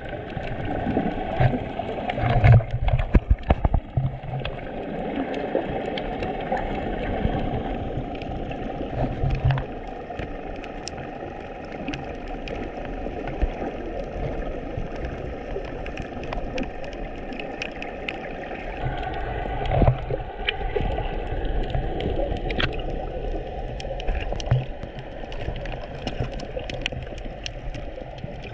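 Underwater sound during a scuba dive: a muffled wash of water, dotted with small clicks, with short gurgling surges of bubbles from time to time.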